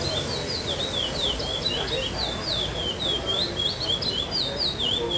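Curió (chestnut-bellied seed-finch), a young male still in brown plumage, singing the 'Praia Clássico' song style: a fast, unbroken run of clear whistled notes, each sliding down or up in pitch, over a low background murmur.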